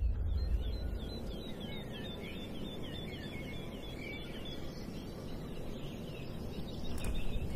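A bird chirping in a rapid repeated series, several short high chirps a second, over a steady low outdoor rumble.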